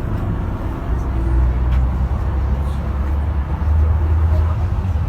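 Steady low rumble of a large vehicle engine running, with faint indistinct voices in the background.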